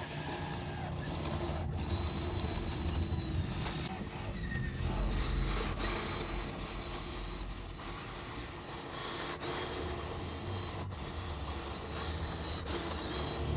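Radio-controlled construction models' electric motors and gears running steadily.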